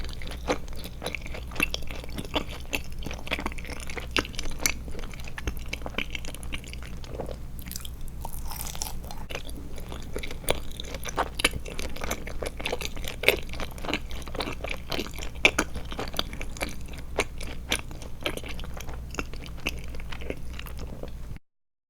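Close-miked chewing of Trolli Glotzer eyeball gummy candy, full of small irregular clicks and crunches, stopping abruptly near the end.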